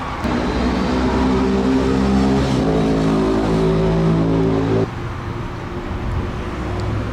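Car engine running at a steady speed. Its pitch shifts up a step about two and a half seconds in, then it falls away abruptly near five seconds, leaving a fainter hum.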